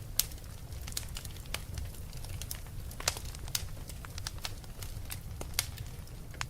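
Wood fire crackling: irregular sharp pops and snaps over a steady low rumble, with louder pops about a fifth of a second in, around three and three and a half seconds, and about five and a half seconds in.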